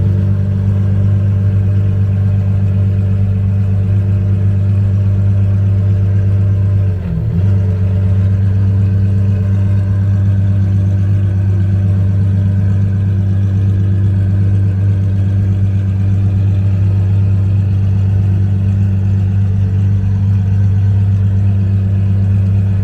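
Car engine idling steadily close by, a loud even low drone, with a brief dip about seven seconds in.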